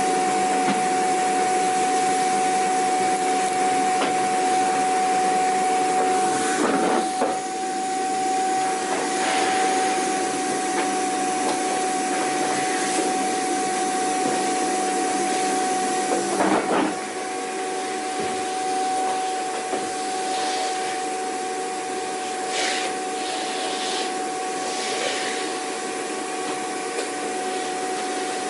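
Vacuum cleaner running steadily: a constant motor whine over airflow hiss. Brief surges of noise come twice, about seven seconds in and again just past halfway, after which it runs a little quieter.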